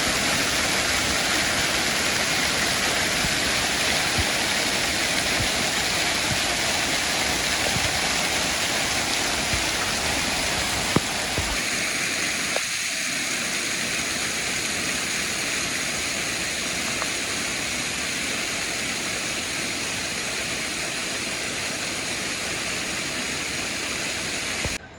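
Waterfall: a steady, loud rush of falling water. About halfway the sound changes slightly, with less low rumble, and it cuts off suddenly just before the end.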